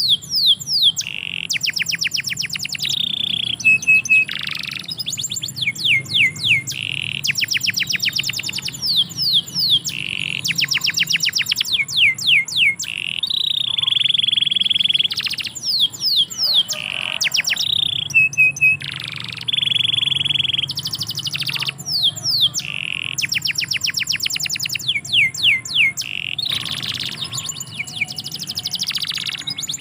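Domestic canary singing a long, continuous song: rapid trills of quick down-sweeping notes alternating with held whistled tones, one phrase running into the next.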